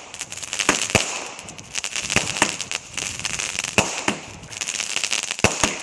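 Fireworks going off: a steady crackling broken by sharp bangs, about eight of them, coming roughly in pairs every second or two.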